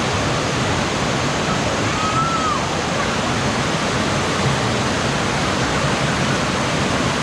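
Jalatarangini waterfall, a multi-tier cascade over rocks: a steady, loud rush of falling water.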